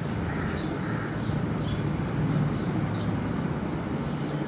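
Small birds chirping in short, irregular calls over a steady low hum, with a scratchy rubbing on a whiteboard about three and four seconds in.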